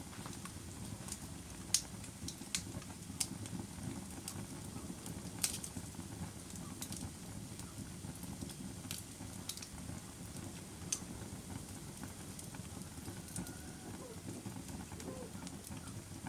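Wood fire burning, a steady low rumble of the flames broken by scattered sharp crackles and pops from the burning wood, the loudest about two seconds in and about five seconds in.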